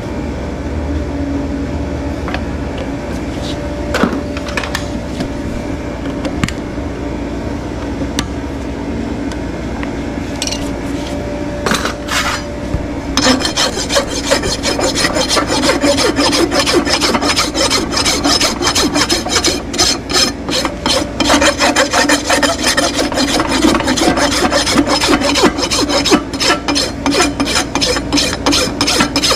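Hoof rasp filing hoof horn. A quieter scraping with a few clicks gives way, about halfway through, to fast, dense rasping strokes.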